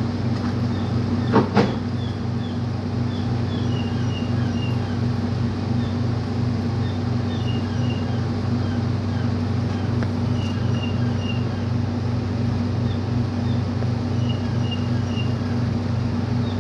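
Engine idling with a steady low drone and a regular pulse. Two sharp knocks come about a second and a half in.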